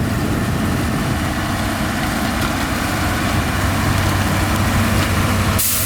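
Heavy diesel engine of earthmoving machinery running steadily with a low rumble. A short hiss cuts in near the end.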